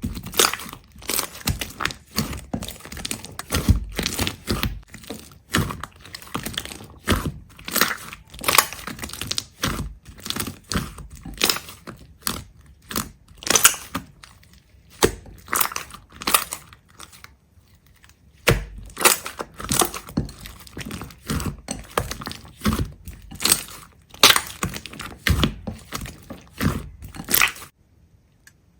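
Irregular crunching and crackling: a dense run of short, sharp snaps and clicks, with a brief lull a little past the middle.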